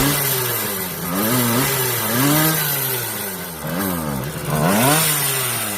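Small moped engine on a Moto Islo, fitted with an HPI cylinder kit, revved in short throttle blips. The pitch rises and falls about five times, with two quick blips close together about two-thirds of the way in.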